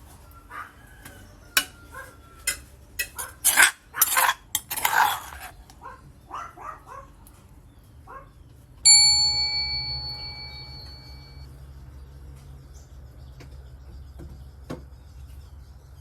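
Dishes and utensils clinking and knocking irregularly, then about nine seconds in a single loud bell-like metallic ding that rings out and fades over a couple of seconds.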